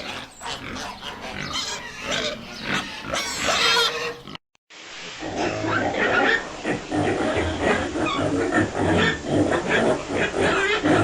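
Domestic pigs grunting and squealing, in two recordings joined by a brief silence about four seconds in.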